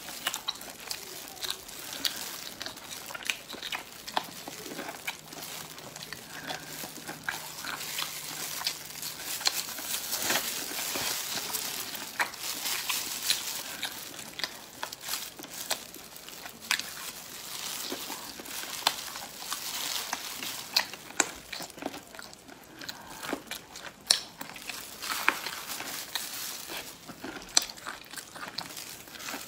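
Close-up chewing of roast rib meat, with many sharp wet mouth clicks, and the crinkle of thin plastic gloves as the meat is pulled from the bone.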